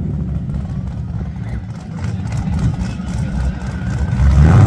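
Car engine idling with a lumpy low rumble, then revved up near the end.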